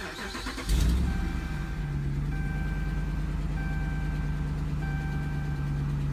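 A pickup truck's engine starts up just under a second in and settles into a steady idle. Over it, a dashboard warning chime beeps repeatedly, with each tone lasting about a second.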